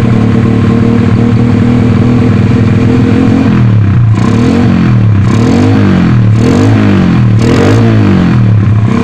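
Honda Astrea Prima's single-cylinder four-stroke engine idling steadily, then blipped up and down about five times, roughly once a second, from about three and a half seconds in, as its sound is being tuned.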